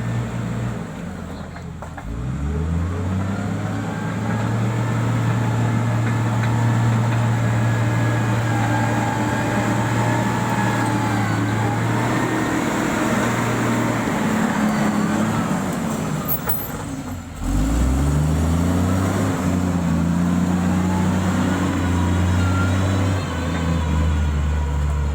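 Heavy-equipment diesel engine revving up about two seconds in and holding at high revs under load. It falls back briefly near the middle, then revs up again and holds.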